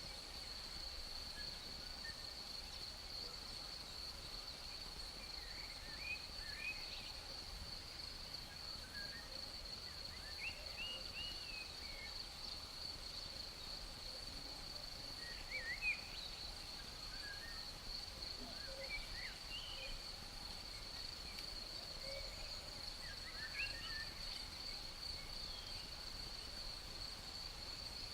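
A chorus of crickets trilling steadily on one high pitch, with short bird chirps and calls coming every few seconds over it.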